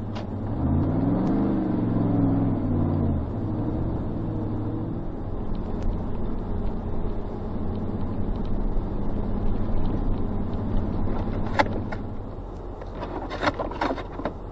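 A rear-wheel-drive vehicle's engine revs up and drops back about a second in, then settles into steady driving noise heard from inside the cab on a snowy road. A few short sharp clicks come near the end.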